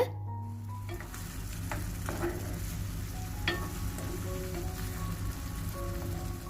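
Prawns and ground pepper masala paste frying in a pan with a steady sizzle while being stirred, with a few short sharp scrapes or knocks about two and three and a half seconds in.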